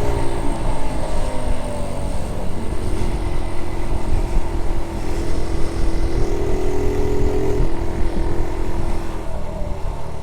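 Honda Z50 J1 Monkey bike's small four-stroke single-cylinder engine running on the move. Its pitch falls as it eases off at the start, climbs slowly from about four seconds in, then drops back near eight seconds.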